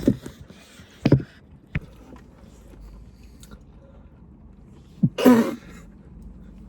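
A person coughing, a single loud cough about five seconds in, after a few short throat sounds and a click near the start.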